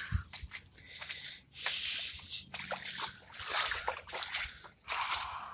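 Footsteps squelching and sloshing through soaked mud and standing water, several uneven wet steps.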